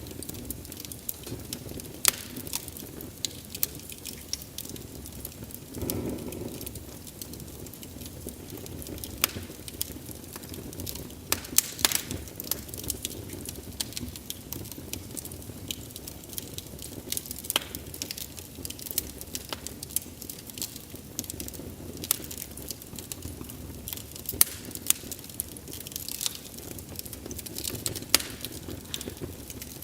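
Wood fire crackling: irregular sharp pops and snaps of burning logs over a steady low rush of flame, with one brief louder rush about six seconds in.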